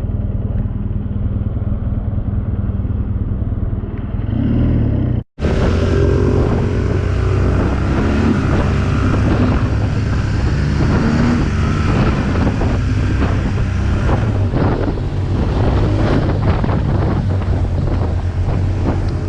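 BMW R1200GS boxer-twin engine running while the motorcycle is ridden, with wind over the microphone. The sound drops out for an instant about five seconds in and comes back brighter and noisier.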